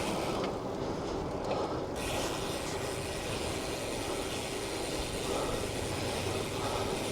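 Steady rushing road noise heard while riding a bicycle in city traffic: tyre and wind noise with a low hum of passing motor traffic.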